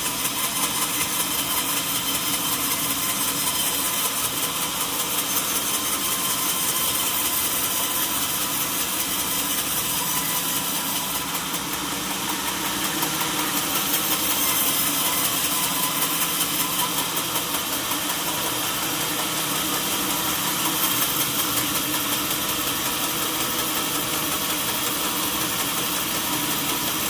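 Sawmill machinery running steadily, a continuous motor drone with a high hiss over it. It swells slightly twice, about halfway through and again later.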